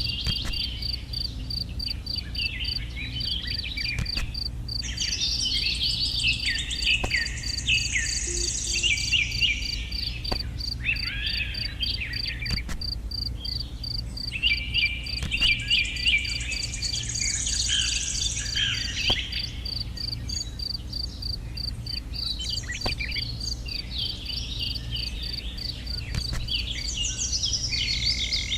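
Birds chirping and singing in repeated bursts over a steady, evenly pulsing insect trill, with a low steady hum underneath.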